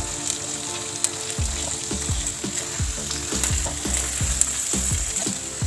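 Cut okra frying in hot oil in a steel wok over medium heat, sizzling steadily as a spatula stirs it.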